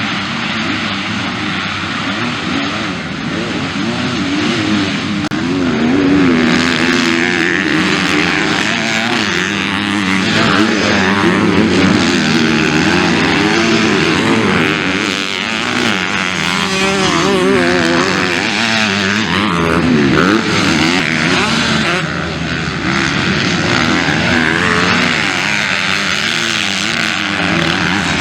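Several motocross bikes racing together, their engines revving up and down over one another.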